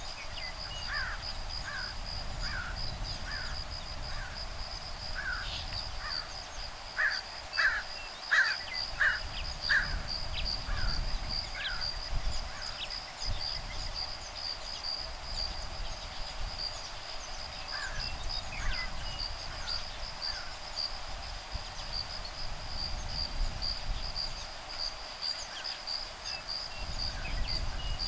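Woodpeckers calling, a run of short repeated calls at about one to two a second that fades out, then a few more calls later, over a steady high insect trill. A low rumble of breeze on the microphone underlies it.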